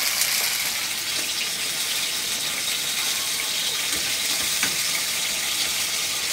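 Pork steaks sizzling as they fry in oil and sauce in a frying pan, a steady hiss, with a couple of light spatula touches in the pan near the middle.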